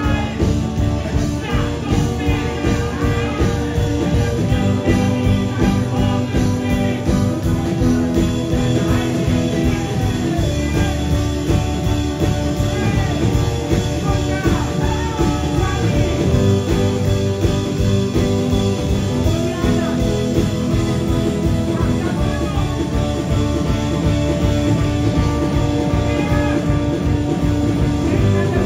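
Live rock band playing with electric guitar, drums and sung vocals.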